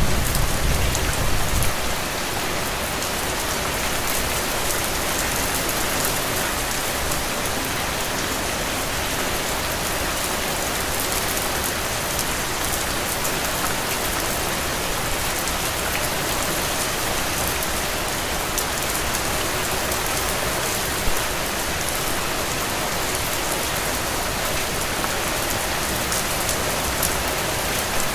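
Heavy, steady rain falling on the ground and forming puddles: an even hiss with fine scattered drop taps. A low rumble fades out in the first two seconds.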